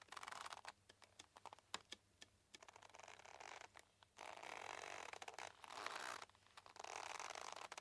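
Boat mooring rope creaking under strain: a series of drawn-out rasping creaks, each lasting about a second, with small clicks and ticks between them.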